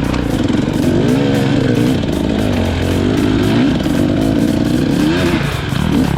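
KTM EXC 250 two-stroke enduro motorcycle engine being ridden, its revs rising and falling repeatedly as the throttle is worked.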